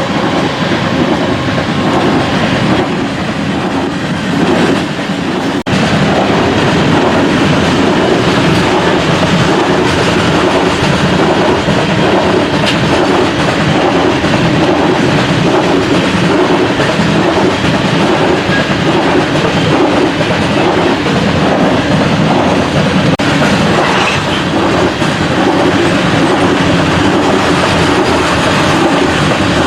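Loaded coal train rolling past at close range, a steady clickety-clack of its hopper cars' wheels over the rail joints.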